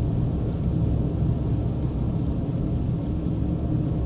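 Steady engine and tyre rumble of a sedan driving, heard from inside the cabin.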